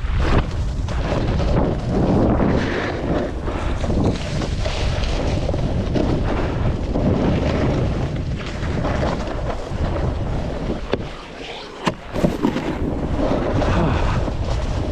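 Wind rushing over the microphone while snowboarding downhill, the board's edges scraping through snow in surges. It eases briefly about eleven seconds in, followed by a couple of sharp knocks.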